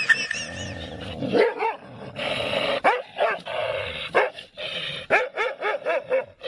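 A dog barking repeatedly in short barks, with a quick run of barks near the end.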